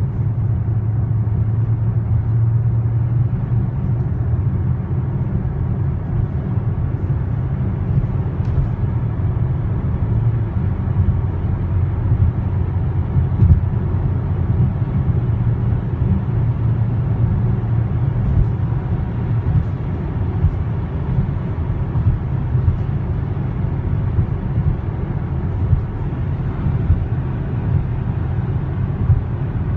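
Inside the cabin of a 2020 Hyundai Palisade cruising on the highway at about 100 km/h: a steady low road and tyre rumble with a faint even hiss above it, no vibration or loud wind noise, a cabin the driver calls really quiet.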